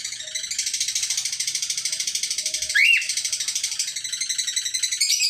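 Cockatiels chattering in a loud, continuous stream of rapid high chirps, with one short rising whistle about three seconds in.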